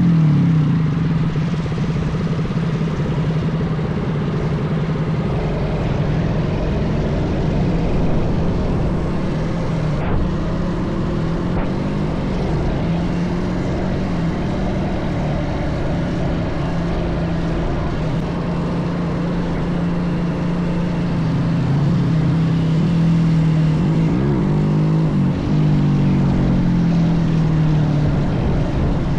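Minibike engine running under way: its pitch drops as the throttle eases at the start, then holds steady, briefly dipping and rising again near the end.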